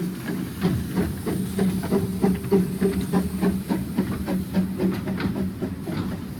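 Narrow-gauge steam train running: a hiss of steam over a steady rumble and hum, with many quick clicks from the wheels on the rails.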